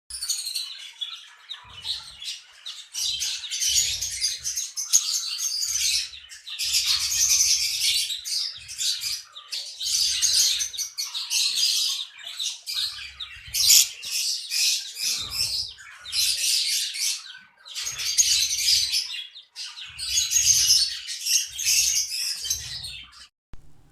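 Lovebirds chattering in shrill, high-pitched bursts of a second or two each, over and over with short gaps.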